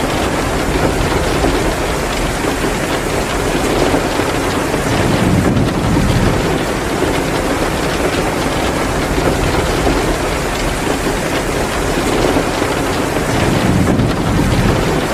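Heavy rain pouring down in a steady, dense hiss, mixed with a wood fire crackling in a fireplace.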